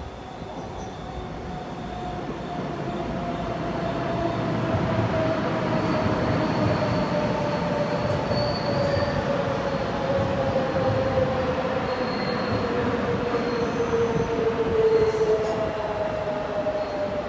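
Taiwan Railway train running through a station. Its rumble builds over the first few seconds and it carries a high whine that slowly falls in pitch.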